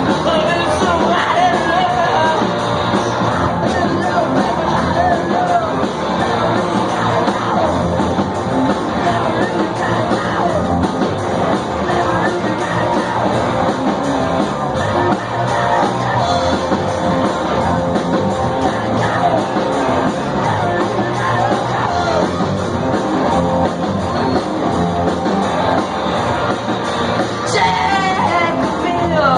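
Live rock band playing loudly, with a vocalist singing and yelling over guitars and drums.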